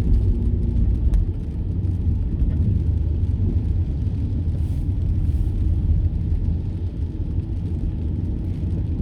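Car cabin rumble while driving: steady low engine and road noise heard from inside the car, with a faint click about a second in.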